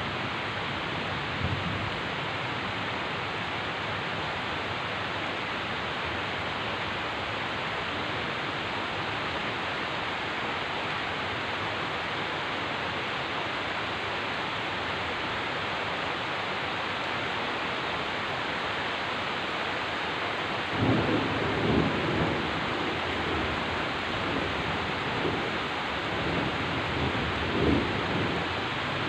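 Heavy rain pouring steadily, with thunder rumbling in irregular low waves from about two-thirds of the way through.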